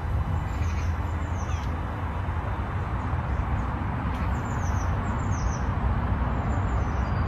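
Small birds chirping, short high calls falling in pitch, in clusters about a second in, around four to five seconds in and near the end, over a steady low rumble.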